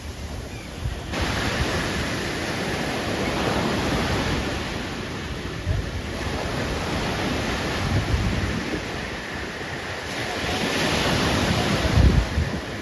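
Surf breaking on a beach, the wash of the waves swelling and easing every few seconds, with wind buffeting the microphone in low rumbling gusts, the strongest near the end.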